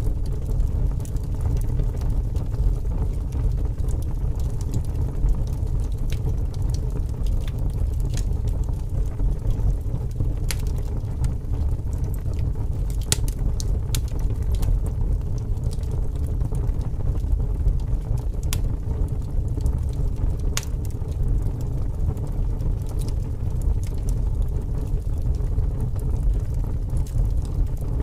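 Wood fire burning, crackling with scattered sharp pops, over a steady low rumble of strong wind.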